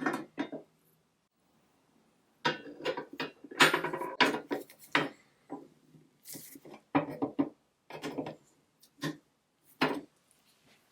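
Metal parts and tools clinking and knocking together in a quick irregular series, with a short scrape partway through.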